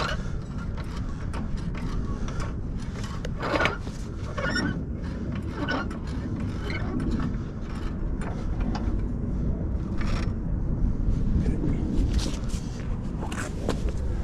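Tools and a jack being handled for a tire change: scattered clicks, scrapes and knocks, with a short ratcheting rattle about four and a half seconds in, over a steady low rumble.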